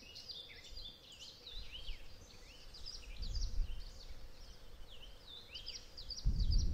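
Small birds chirping and singing in quick, repeated high calls that sweep up and down. A low rumble comes in about three seconds in and returns louder near the end.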